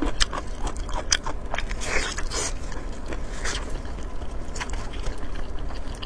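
Close-miked mouth sounds of a person biting and chewing braised pork head: irregular wet clicks and smacks, busier in the first couple of seconds.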